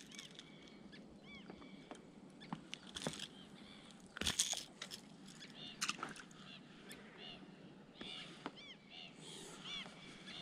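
Birds calling faintly and repeatedly in short arched notes, in scattered groups. A few sharp taps and knocks come through, the loudest about four seconds in.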